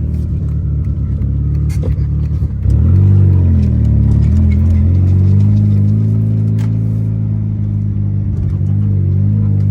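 Car engine running under way; about two and a half seconds in it gets suddenly louder, its pitch rising and falling briefly, then settles into a steady drone.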